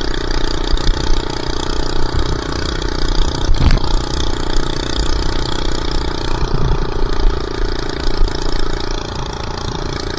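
Minibike's small engine running at a steady speed during a ride, with wind buffeting the microphone and a single short knock about four seconds in.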